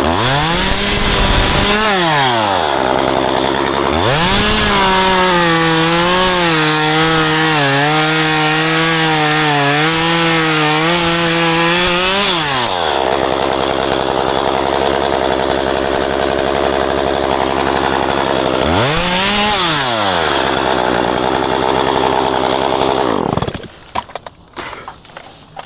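Two-stroke gasoline chainsaw revving and cutting through ficus branches for about eight seconds, its pitch wavering under load. It drops back to idle, revs briefly once more, then cuts off near the end.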